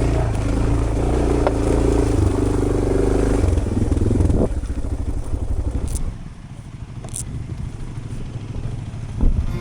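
Adventure motorcycle engine running on a dirt road, steady and fairly loud, then dropping to a quieter low running after about six seconds, with a couple of sharp clicks.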